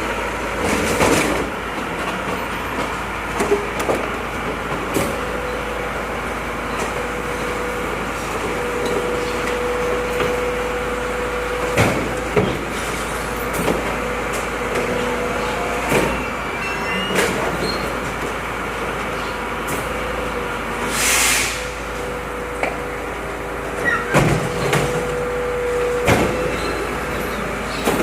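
Volvo FM 370 truck running steadily, with a held hum, scattered knocks and clunks, and a short hiss about 21 seconds in.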